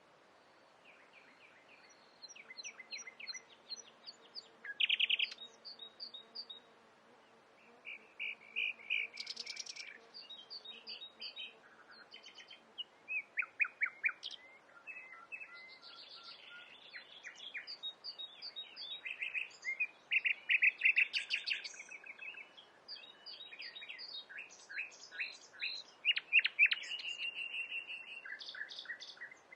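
Nightingale singing: a long run of varied phrases of rapid repeated notes, trills and clicks, each phrase a second or two long with short pauses between.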